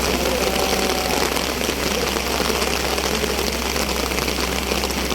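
A vehicle engine running steadily under a constant hiss of noise.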